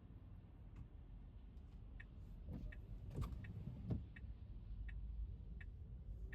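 Electric car driving on a wet road in the rain: a steady low road-and-tyre rumble, swelling a few times around the middle. From about two seconds in, a short tick repeats evenly about every 0.7 seconds.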